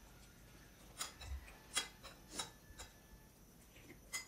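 Close-up eating sounds: chewing and lip smacks, heard as a string of short, irregular wet clicks.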